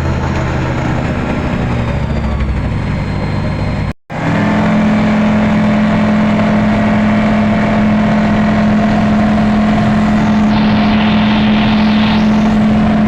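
A motor running steadily. About four seconds in it cuts out for a moment and comes back as a steadier, even hum.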